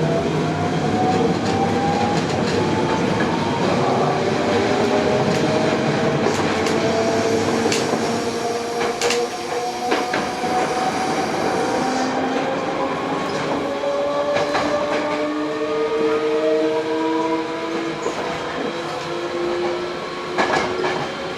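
Hankyu 8000 series train heard from inside the car while under way, its Toshiba GTO-VVVF inverter and traction motors whining in several tones that climb slowly in pitch as the train gathers speed. Beneath runs the rumble of wheels on rail, with a few sharp clicks of rail joints.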